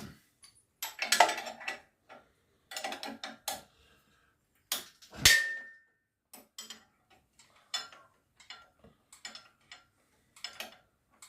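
Metal tools and parts being handled: scattered clicks and clatter, with one loud metallic clank about five seconds in that rings briefly, then lighter ticks and taps.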